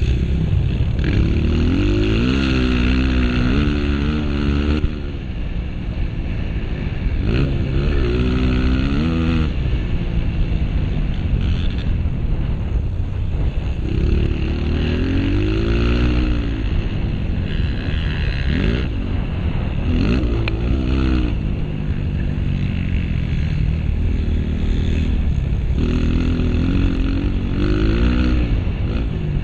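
Honda CRF230 single-cylinder four-stroke dirt bike engine under hard riding, revving up and dropping back again and again as the throttle opens and closes and gears change around a motocross track.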